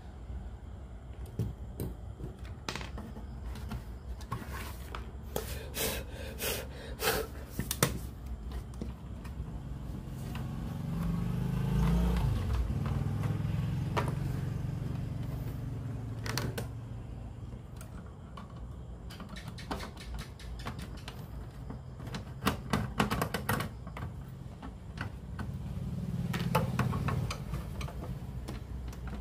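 Irregular small clicks and knocks of parts and tools being handled while working on a cassette radio, with a low rumble that swells twice.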